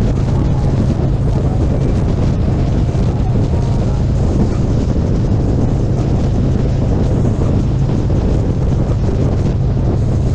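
Motorcycle riding at a steady speed: a steady low engine drone under heavy wind noise on the microphone.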